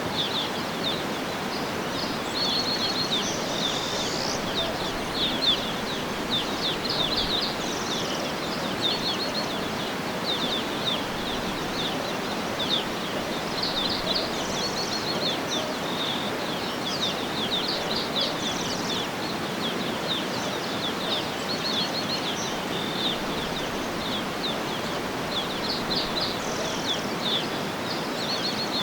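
Small birds chirping and giving short rapid trills almost without pause, over a steady rushing background noise.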